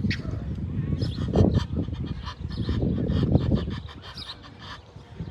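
Geese honking in a series of short calls over a heavy low rumble.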